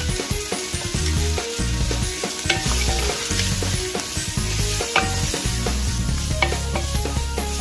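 Smoked pork, onion and celeriac sizzling as they fry in a non-stick pan while being stirred with a wooden spatula. The spatula scrapes and knocks against the pan a few times.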